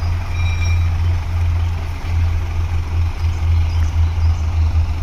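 Heavy truck's diesel engine running with a deep, steady rumble, as a truck takes up a steel tow cable to pull a stalled truck up a steep climb. A brief high tone sounds about half a second in.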